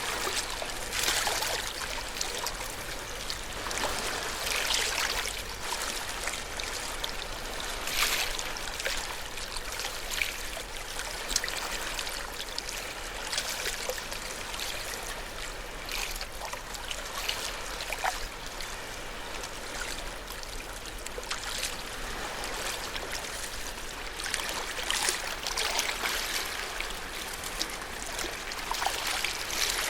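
Small ocean waves washing and lapping at the shore: a steady wash of water with louder splashes every few seconds.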